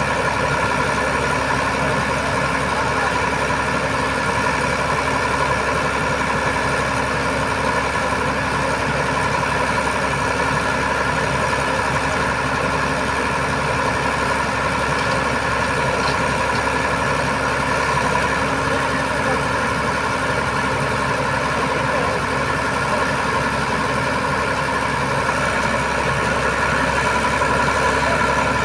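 Heavy truck engine running steadily at a constant speed.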